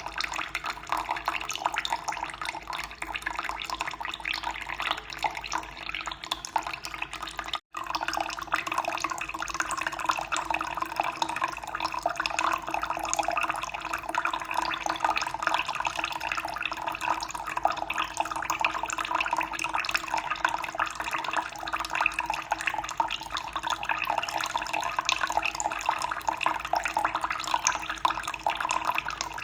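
Running water flowing steadily, with a brief dropout to silence about eight seconds in.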